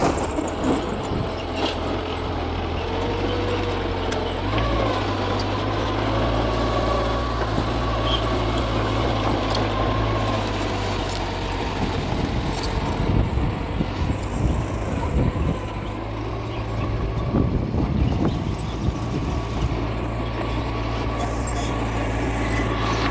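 Mitsubishi bulldozer's diesel engine running steadily under work, its low hum shifting up and down a few times, with scattered short clanks.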